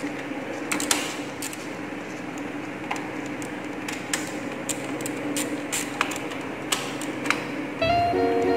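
Scattered sharp metallic clicks and clinks at irregular intervals, from hand tools working on a motorcycle engine's cylinder-head bracket screws, over a steady low hum. Background music comes in near the end.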